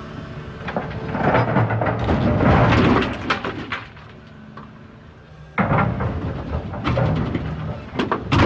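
Rocks falling from a Volvo EC380EL excavator's bucket crash and rumble into a truck's steel dump body. There is a long crash about a second in, then a second run of knocks starting suddenly past the middle, over the steady low running of the excavator's engine.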